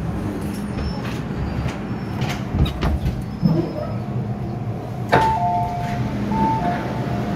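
MTR M-Train car interior: steady train hum with a few clicks and knocks. About five seconds in there is a sharp click, then an electronic chime of alternating high and low tones that sounds twice.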